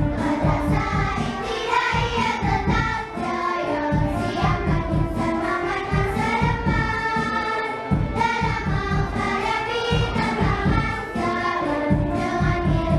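Children's choir singing over an instrumental accompaniment with a steady beat.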